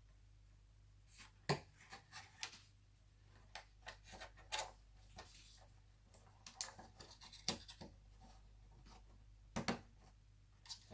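Scattered small clicks and brief scrapes of hands handling laptop parts and cables during reassembly, with a sharper click about a second and a half in and a double click near the end.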